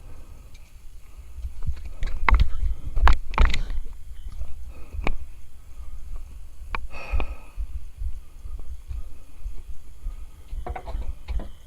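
Low rumbling buffeting with scattered sharp knocks and clatter, bunched about two to three and a half seconds in: close handling noise while a tangled catfish is landed from the river bank.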